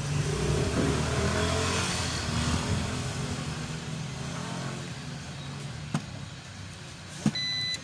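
Passing traffic rumbles and fades away; near the end a click is followed by a digital multimeter's continuity beep of about half a second, the tester showing the MOSFET from the TV's power board is shorted.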